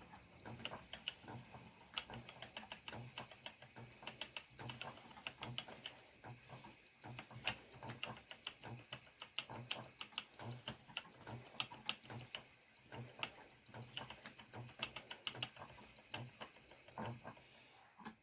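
Spinning wheel running while yarn is plied: faint, rapid clicking with a soft low thump repeating about twice a second from the treadling.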